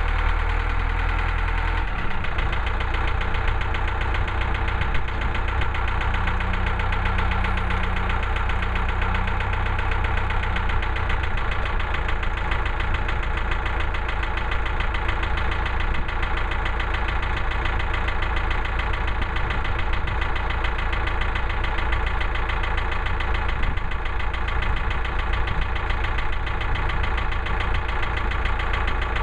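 Woodland Mills HM130 Max portable band sawmill's gas engine running steadily.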